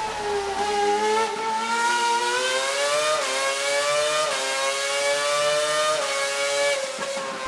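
Formula One V8 engine running at high revs with a high, whining note. Its pitch dips at first, then climbs, with a short drop about three, four and six seconds in, as at gear upshifts.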